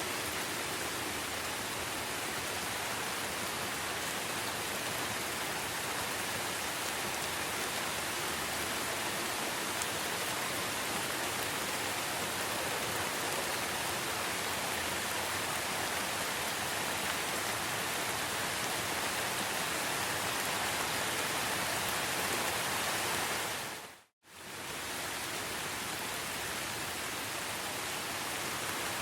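Steady rain, an even hiss with no single drops standing out. About 24 seconds in it fades out to silence for a moment and fades straight back in, like the join of a looped recording.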